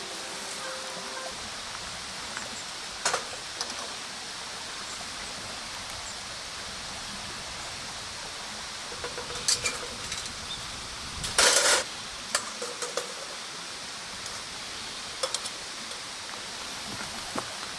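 Wood bonfire burning, with a steady hiss and scattered sharp crackles and pops, including a longer crackling burst about two-thirds of the way through.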